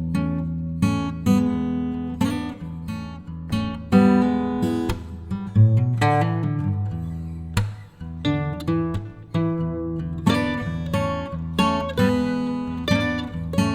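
Background music: an acoustic guitar being strummed, its chords struck in a steady rhythm.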